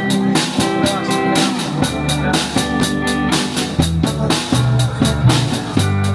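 Rock band playing an instrumental intro: a drum kit keeps a steady beat under bass and sustained chords.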